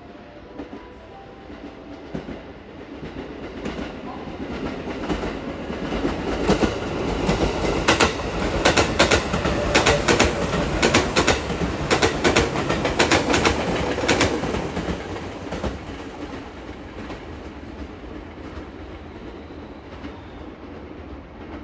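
JR West 221 series electric train running past, its wheels clacking over rail joints in a quick regular rhythm. The rumble builds up, is loudest as the cars go by, then fades away.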